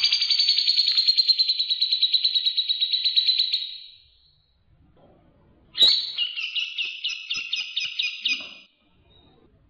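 Recorded songbird calls: a rapid trill lasting nearly four seconds, then, after a short pause, a second rapid chattering phrase of about three seconds.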